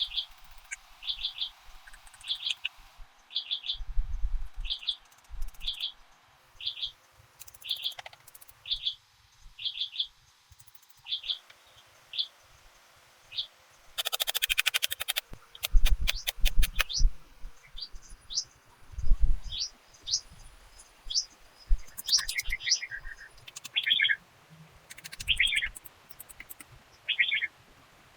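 A bird calls with a short high note repeated steadily about every 0.7 s, followed in the second half by varied short whistled notes and chirps. Dull thumps and a quick run of clicks about halfway through come from nearby handling.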